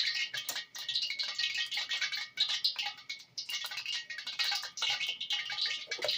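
Hot cooking oil crackling and popping in a pan, a quick irregular spitting that goes on without a break. The cook puts the spitting down to a little water in the oil.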